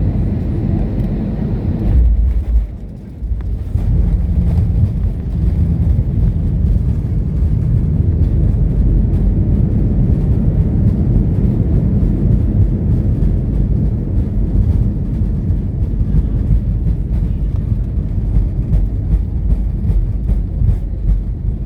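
Airplane landing: a loud, steady low rumble that dips briefly about two and a half seconds in, then continues.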